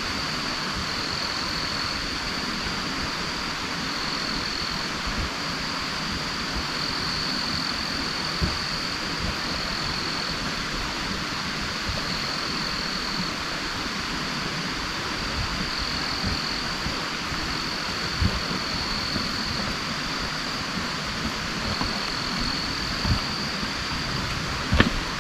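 Steady rain falling, with scattered drops tapping and one sharp click near the end. A continuous high-pitched whine that swells and fades runs over the rain throughout.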